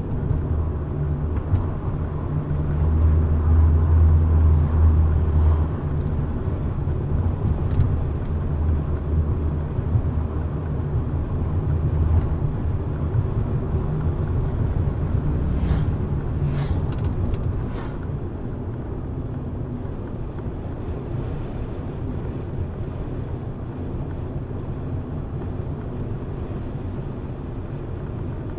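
Car driving along a road: steady low engine hum and road rumble that grows louder about three seconds in and eases again a few seconds later. Three short clicks come a little past the middle.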